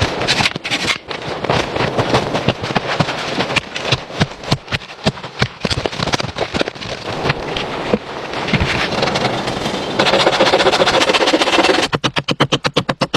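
Hands-on shelter-building work: a busy run of sharp cracks, knocks and scraping. Near the end it turns into a fast, even series of rasping strokes, about eight a second.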